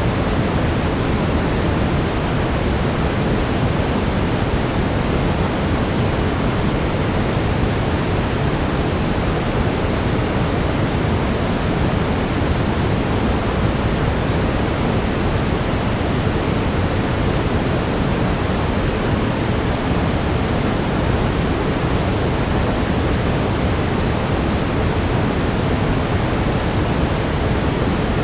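Steady brown noise, a constant even rush weighted toward the low end, unchanging throughout.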